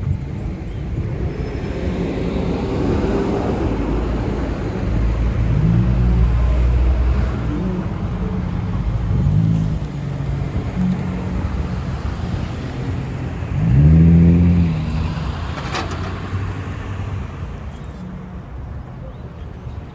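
Street traffic with a transit bus engine accelerating: its engine note rises and drops three times, loudest about two-thirds of the way through, over a steady low rumble. A single sharp click comes shortly after.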